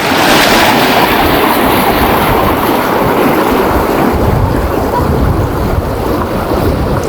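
Fast, high-volume river water rushing steadily at the confluence of the Indus and Zanskar rivers, a loud even rushing noise with an uneven low rumble beneath.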